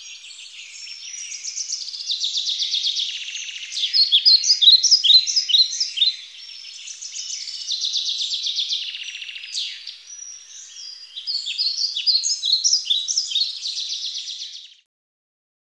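Birdsong: a dense run of high chirps and rapid trills in varied phrases, stopping abruptly near the end.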